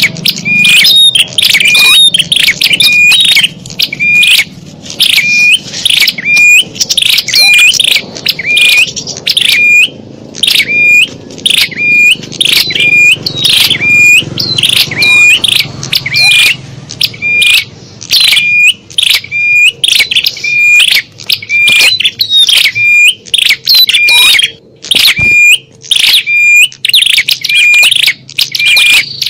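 Recorded small-bird lure call (suara pikat): the same high, piercing chirp repeated over and over in quick succession, loud and unbroken.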